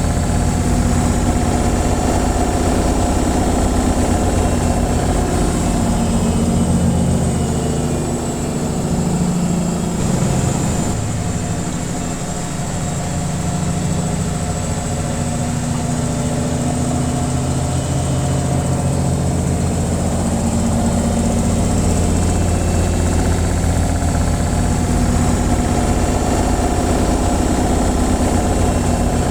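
Washing machine on its spin cycle: a steady mechanical hum and whir with a deep low drone. It eases slightly about ten seconds in, then builds back to full speed.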